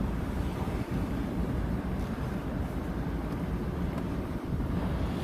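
Steady road and wind noise inside a moving car: a low, even rumble from the tyres and engine.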